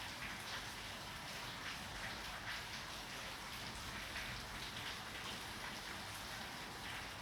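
Steady rain falling, with many small drop impacts.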